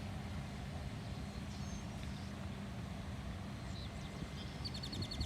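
Steady drone of the E-flite Carbon-Z Cessna 150's electric motor and propeller in flight, over gusting wind noise. Near the end comes a brief, rapid trill of high chirps.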